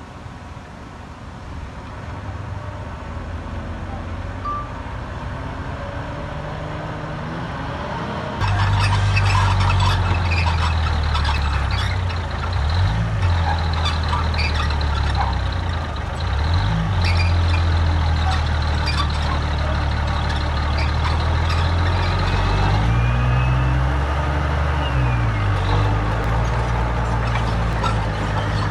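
Heavy diesel engine of earthmoving equipment running, with scattered clanks. It becomes suddenly much louder about eight seconds in, and its pitch dips briefly several times as the load changes.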